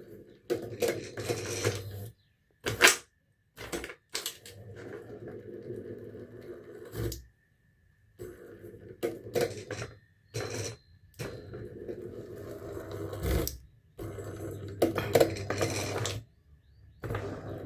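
Small electric motor working the press of a Polymas hot-print machine in place of its manual lever, running in several spells of a few seconds each, with clicks and clunks from the press mechanism. A sharp knock about three seconds in is the loudest sound.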